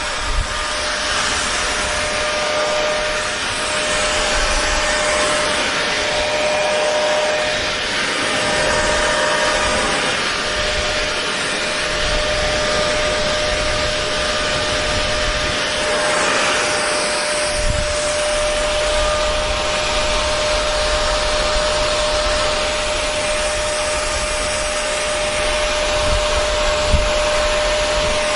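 Hair dryer running steadily on one setting: a constant rush of blown air with a steady motor whine.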